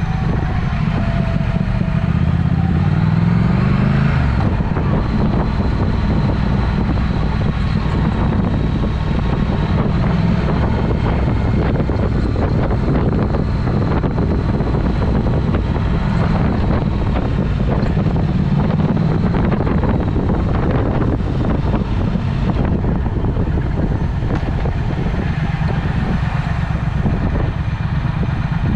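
Triumph Speed Twin's parallel-twin engine running through an aftermarket Vance & Hines exhaust while the bike is ridden. The engine speed rises about two to four seconds in, then holds steady.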